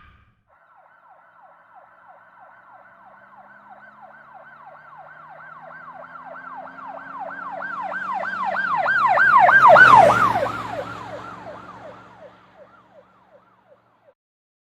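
Emergency vehicle siren in a fast yelp, about three sweeps a second, growing louder as it approaches and passes about ten seconds in, its pitch dropping, then fading away.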